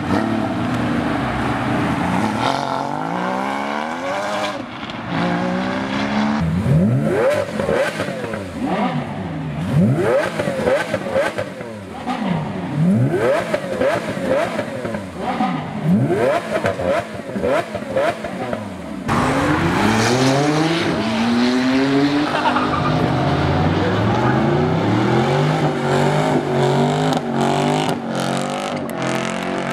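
Car engine revving in repeated sharp blips, each a quick rise in pitch, about one a second. About two-thirds of the way through, the sound changes abruptly to an engine pulling up through rising revs.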